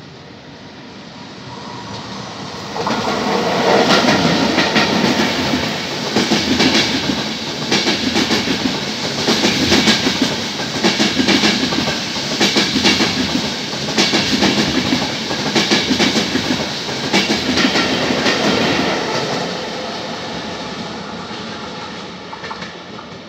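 Intercity passenger train passing through the station at speed. Its rail noise swells suddenly about three seconds in. Then comes a long run of regular wheel clacks over the rail joints as the coaches go by, and the sound fades near the end.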